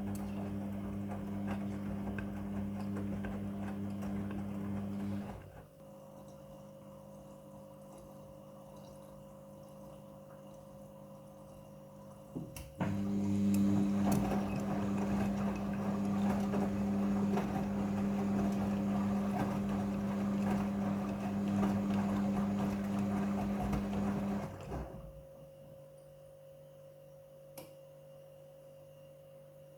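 Front-loading washing machine mid-cycle. A steady hum with rushing water runs for about five seconds and cuts off, comes back about seven seconds later for about twelve seconds, then cuts off abruptly. A fainter steady hum continues between.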